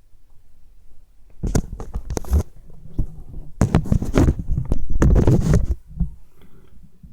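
Slime squeezed and kneaded by hand close to the microphone, squelching and crackling in two bouts, the second longer and louder.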